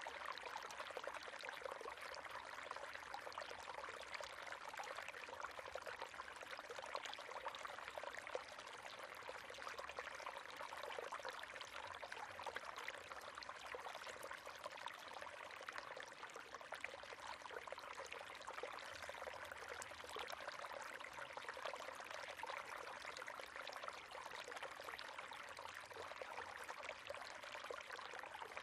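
River water flowing: a steady, even rush of running water with a busy texture of small splashes, mostly mid and high in pitch with little low rumble.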